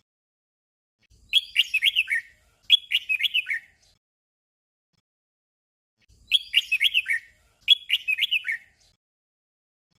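Red-whiskered bulbul song: short, warbled phrases sung in pairs, the doubled phrase that gives the song its name. One pair starts about a second in and another about six seconds in, with silence between them.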